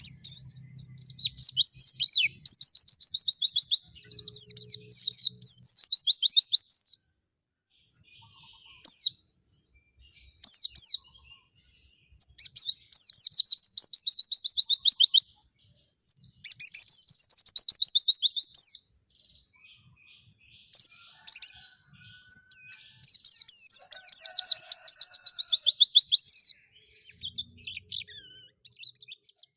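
White-eye (pleci) singing in full voice: long, fast, high-pitched twittering phrases of a few seconds each, separated by short pauses with scattered single notes.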